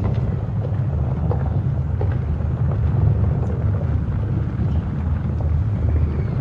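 Deep, steady rumble with scattered faint crackles: the film sound effect of the great wildfire blast burning on.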